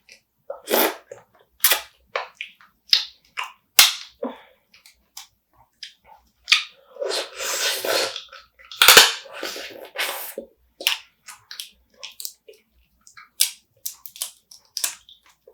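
Close-up eating of spicy marinated raw crab: a series of sharp cracks and crunches as the crab shell is bitten and broken. About six seconds in there are a few seconds of continuous wet chewing and sucking.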